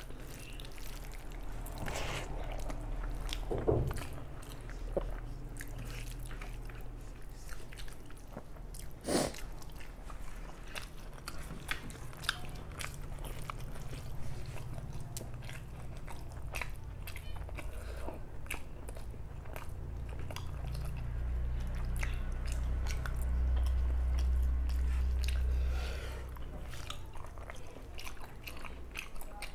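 A person chewing mouthfuls of rice and spicy chicken curry close to the microphone, with many small wet mouth clicks and smacks. A low rumble swells for several seconds in the second half.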